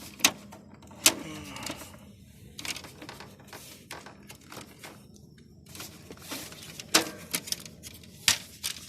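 Plastic clicks and knocks as the busted front grille of a window air conditioner is handled: a few sharp clacks, the loudest about a second in, near the end and twice more, with lighter rattling between them.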